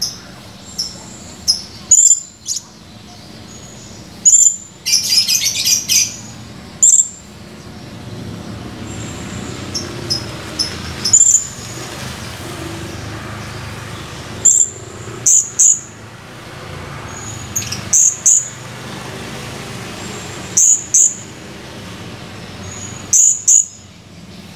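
Blue-crowned hanging parrot (serindit) giving short, sharp, high-pitched chirps, singly or in quick pairs every second or two. About five seconds in it gives a rapid chattering run.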